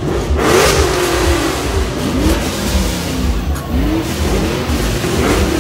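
A car engine being revved in repeated throttle blips about every second and a half. Each blip rises quickly in pitch and falls back to idle.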